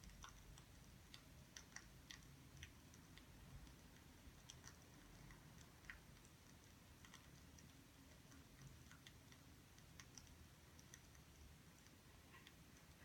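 Faint crackling of a burning wood fire: scattered, irregular small snaps and pops over a low, quiet rumble.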